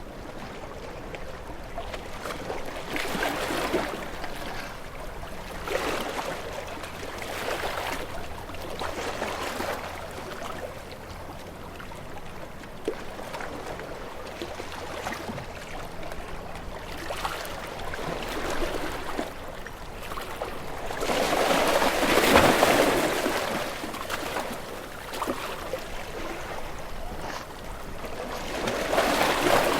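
Ocean waves washing in, a surge of surf every few seconds that swells and falls away, with a bigger wave breaking about two-thirds of the way through.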